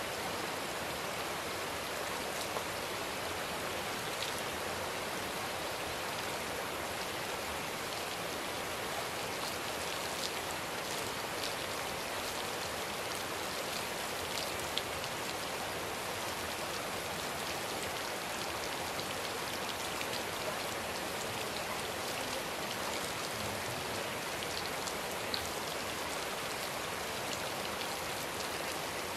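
Steady rain falling, an even hiss with scattered drops ticking now and then.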